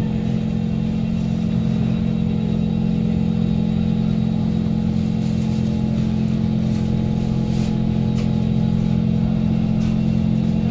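Kawasaki Heavy Industries C151 train standing at the platform after braking to a stop, its motor sound gone: a steady low hum with a thin steady tone above it from the stationary train's onboard equipment. A few faint clicks come near the end.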